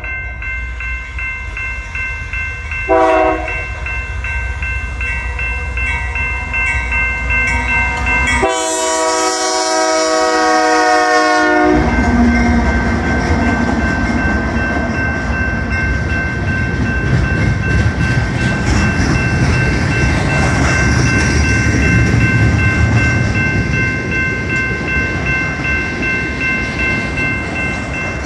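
Freight train with diesel locomotives passing close. The multi-chime air horn gives a short toot about 3 seconds in, then a long blast of about three seconds near the middle. After that comes the loud rumble of the locomotives' engines and the rolling noise of the cars going by.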